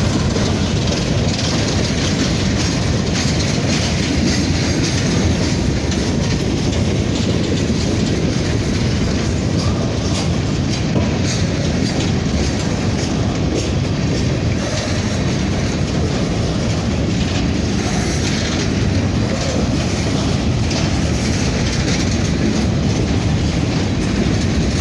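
Freight grain train of loaded covered hopper cars rolling past at close range: a steady, loud rumble and clatter of steel wheels on the rails.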